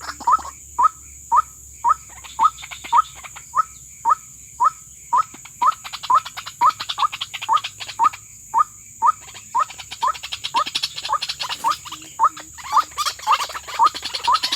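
White-breasted waterhen (ruak-ruak) calling: a steady series of short, rising notes, about two a second, with a brief pause partway through.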